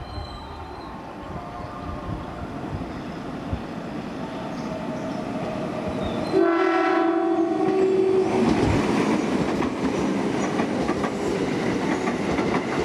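Freight train approaching and growing louder; just past halfway the locomotive's horn sounds one blast of about a second and a half. The train then runs past louder, its wagons clattering over the rail joints.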